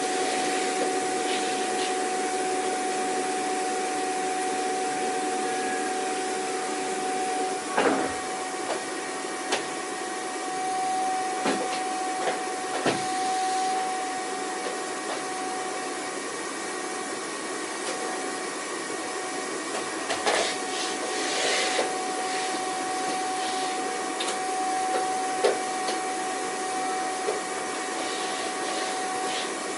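Vacuum cleaner running steadily, its motor giving a constant whine over a wash of airflow noise. A few brief knocks and clicks come through, around a quarter and two-thirds of the way in.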